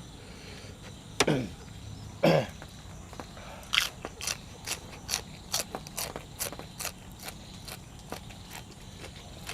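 A person chewing crunchy food close to the microphone, with a run of sharp crunches about two a second. Before the crunches come two short loud sounds that glide steeply downward in pitch.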